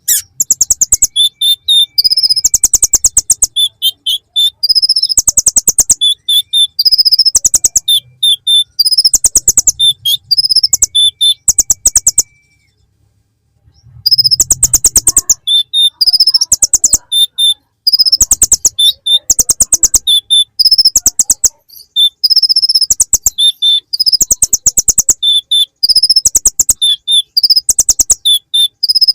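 Kolibri ninja (konin) sunbird song packed with bar-winged prinia (ciblek) phrases: fast runs of sharp ticking notes mixed with high, thin whistled notes, pausing briefly about twelve seconds in.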